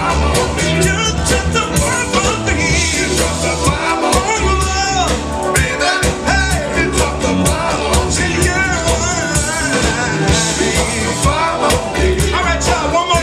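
A live soul band playing: singing over a steady drum beat and bass.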